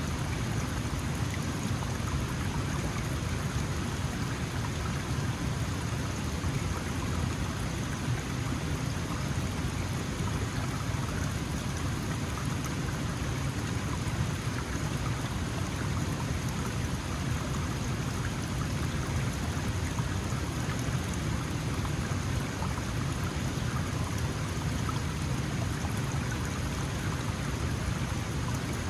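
Small mountain stream flowing: a steady, even rush and babble of water over rocks.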